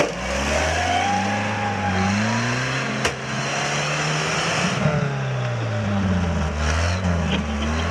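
Off-road 4x4's engine revving under load, its pitch rising and falling again and again, with one sharp knock about three seconds in.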